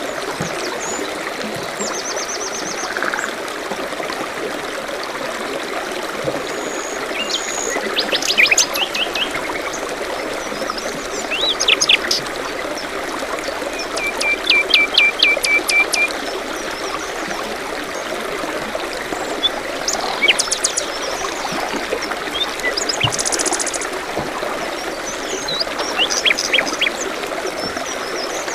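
A small stream trickling steadily, with songbirds chirping over it in short calls; about halfway through, one bird gives a run of about eight quick, evenly spaced notes.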